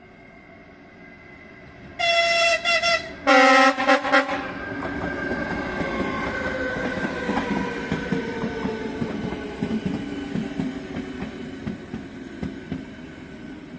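Train horn blown as a greeting from the driver: a high note, then a lower note in short choppy blasts. The train then passes, its wheels clattering over rail joints while a running tone slowly falls in pitch, and the sound fades as it moves away.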